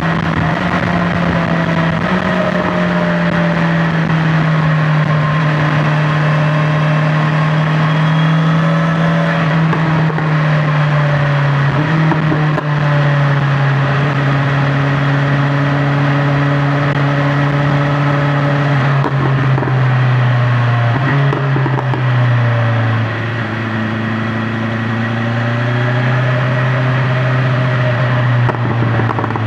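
BMW S1000XR's inline-four engine running at highway cruise, its note slowly falling in pitch as it eases off, with short lifts in pitch about halfway through and again later, over steady road and wind noise.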